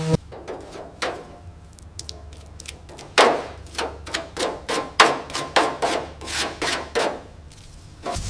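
Hand-worked rubbing or scraping strokes, irregular and quiet at first, then louder and quicker, about two or three a second, from about three seconds in.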